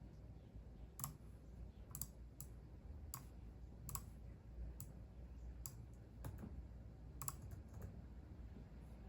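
Computer keyboard keys pressed slowly and unevenly, about a dozen single keystrokes spread over several seconds, over a faint low hum.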